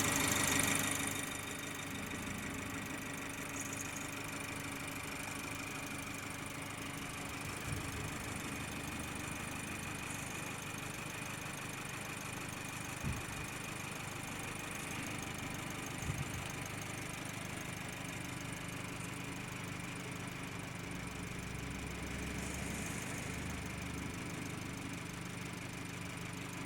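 BMW M135i xDrive's 2.0-litre turbocharged four-cylinder petrol engine idling steadily and smoothly, heard from under the bonnet.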